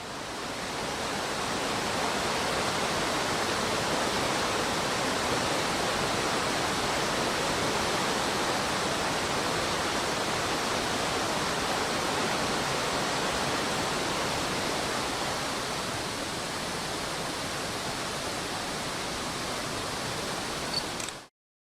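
Rapids of a fast mountain stream, a steady, even rush of water. It swells in over the first second or two and stops abruptly near the end.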